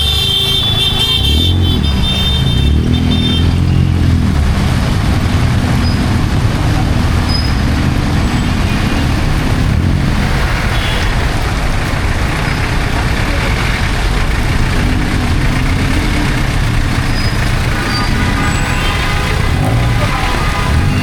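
Heavy rain falling steadily over city street traffic, with vehicle engines running past. A horn sounds briefly at the start.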